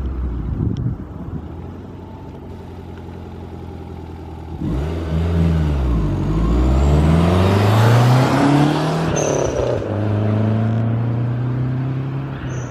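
Lancia Delta HF Integrale 16V's turbocharged four-cylinder engine on the move: light running at first, then about five seconds in it accelerates hard. The note dips at a gear change and climbs again with a faint high whistle rising alongside, then drops at a second shift and settles into a steady pull.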